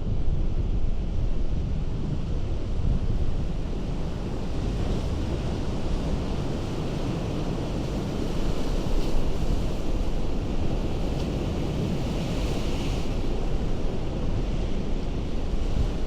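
Ocean surf breaking and washing over a rocky shore in a continuous rush, with a brighter hiss of spray and foam around the middle. Wind rumbles on the microphone throughout.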